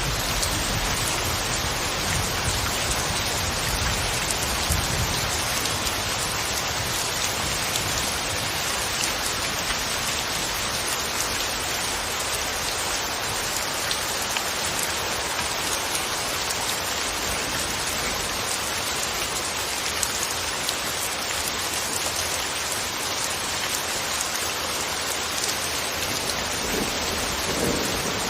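Steady rain falling on a surface, an even hiss with fine scattered drop ticks.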